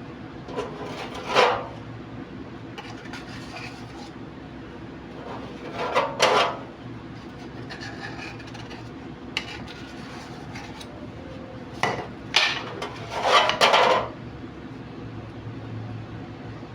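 Short bursts of hand scraping or rasping, four strokes spread out with pauses between them, over a steady low hum.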